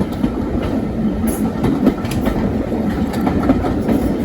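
Passenger carriage of a heritage train running at speed, heard from on board: a steady rumble with irregular clicks from the wheels over the rail joints.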